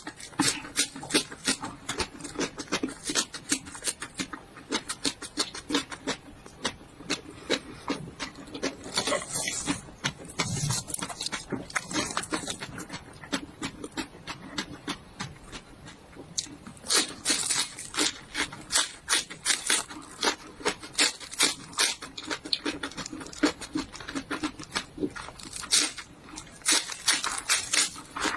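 Close-up chewing of raw vegetables: a quick run of crisp, wet crunches, several a second, with a denser mouthy stretch partway through.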